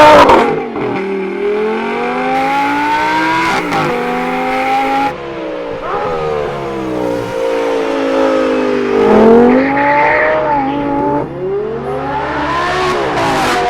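Audi R8 GT's V10 engine through a Kline Innovation race exhaust, pulling hard with the revs climbing, then dropping sharply at each quick gear change, several times over. A loud burst of revs comes at the very start, and the note climbs once more and fades near the end.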